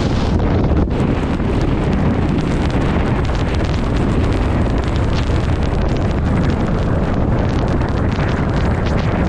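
Strong mountain wind buffeting the microphone: a loud, steady rush, heaviest in the low end.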